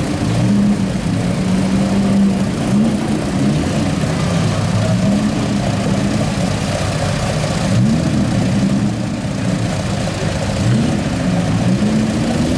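Several pre-war race car engines idling together, the revs rising and dropping briefly a few times as throttles are blipped.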